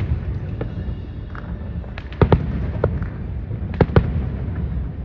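Aerial fireworks shells bursting. A sharp pair of bangs comes about two seconds in and another pair near four seconds, with fainter pops between them, over a steady low rumble.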